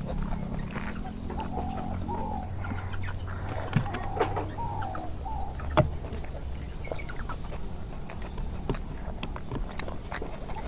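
Birds calling in short, repeated, arching calls, with scattered sharp clicks.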